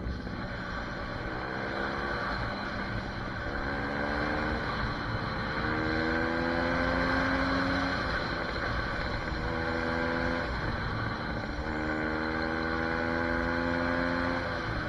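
SSR 150 dirt bike's engine running under way, climbing in pitch in several pulls of a few seconds each with short breaks between as the rider accelerates, over low wind rumble on the microphone.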